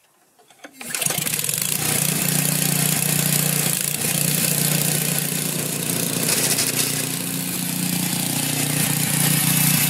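Snowblower's 8 hp Briggs & Stratton single-cylinder engine starting about a second in and then running steadily.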